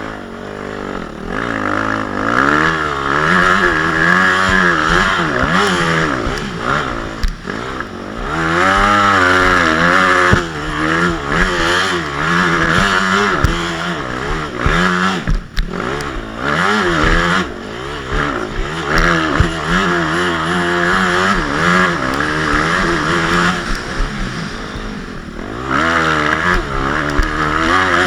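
Motocross bike engine running hard, its pitch rising and falling again and again as the throttle is worked, with short drops in revs now and then.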